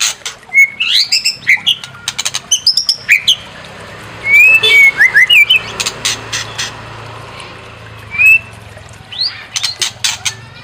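White-rumped shama (murai batu) singing: rapid runs of sharp clicking chatter mixed with short whistled notes that slide up and down.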